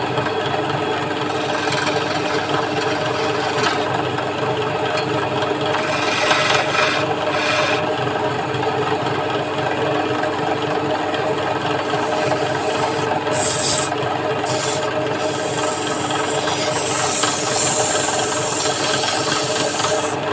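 Wood lathe running with a steady hum while a hand tool scrapes against the spinning wooden leg of a pidha being turned, with louder hissing stretches about six, thirteen and seventeen seconds in.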